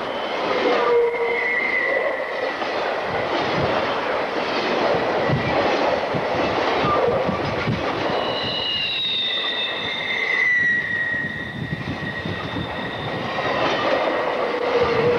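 Southern Pacific freight cars rolling past, their steel wheels squealing on curved track in drawn-out high tones that come and go, over a steady rolling rumble with rapid clicking over the rail joints.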